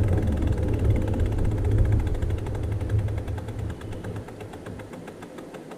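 Wind rumbling on the bike-mounted action camera's microphone, dying down about four seconds in as the bicycle slows, with the rear freewheel hub ticking rapidly as it coasts.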